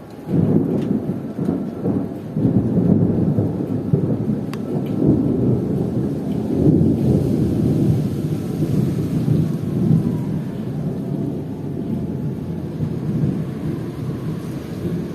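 Thunder breaks in suddenly and rolls on as a long, loud, low rumble that swells a couple of times and then slowly eases. Heavy rain falls underneath it.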